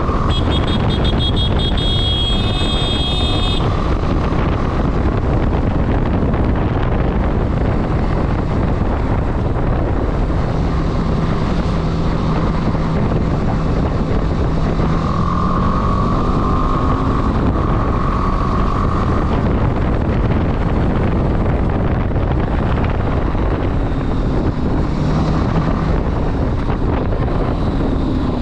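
Motorcycle riding with heavy wind rushing over the microphone and engine and road noise underneath. A brief high-pitched tone sounds in the first few seconds.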